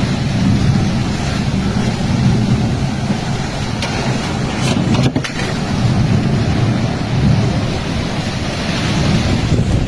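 Thunderstorm wind and rain: a steady, loud rush of noise with a low rumble that swells and eases in gusts.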